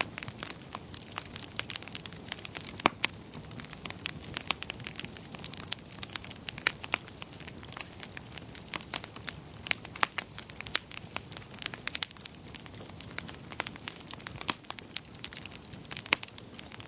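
Log firewood burning: the fire crackles with frequent, irregular sharp pops over a soft, steady rush of flame.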